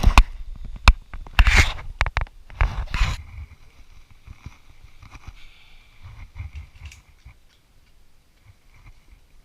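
Zip line gear handled: metal clicks and clanks with rustling bursts through the first three seconds, then a faint steady high whine with scattered small clicks.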